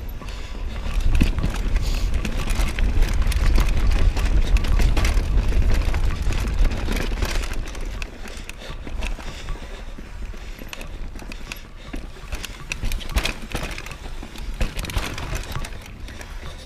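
Mountain bike being ridden over a rough trail: wind rumbles on the microphone, heaviest in the first half, and the bike gives frequent clicks and rattles.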